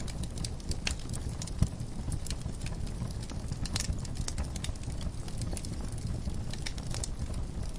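Wood fire crackling in a fireplace: irregular sharp pops and snaps over a low steady rumble of the flames, with one louder pop about one and a half seconds in.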